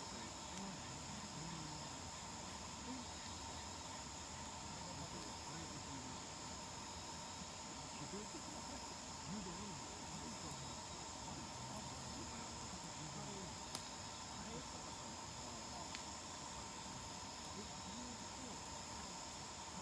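Steady chorus of crickets and other insects, with faint indistinct voices low in the background and a few isolated sharp clicks.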